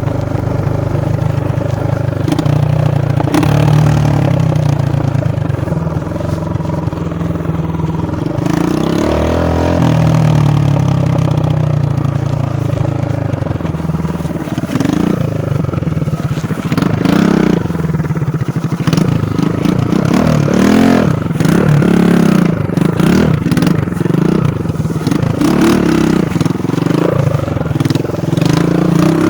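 Dirt bike engine running steadily, then revving up and down over and over through the second half, its pitch rising and falling.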